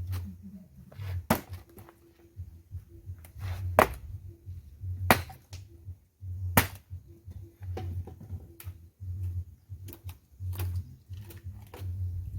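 Dry firewood knocking and clattering in sharp cracks every second or two, with low thuds between them, as sticks are handled and stacked onto a bonfire pile.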